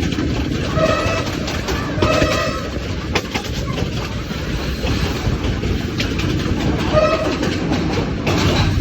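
Train running along the track with a steady rumble and rail clatter, with a few sharp clicks. Three short, high tones sound over it about one, two and seven seconds in.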